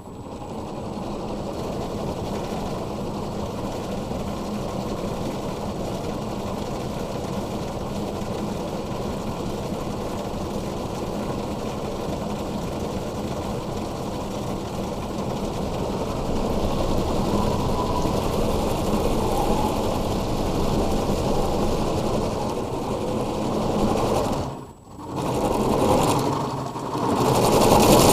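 Automatic car wash machinery running with a steady, rhythmic mechanical whirring that starts suddenly, dips sharply for a moment near the end, then comes back louder.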